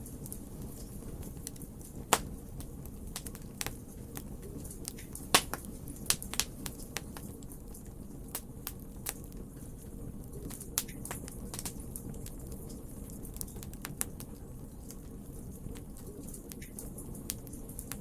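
Wood fire burning in a fireplace: a low steady rumble with irregular sharp crackles and pops from the burning logs, the two loudest pops about two and five seconds in.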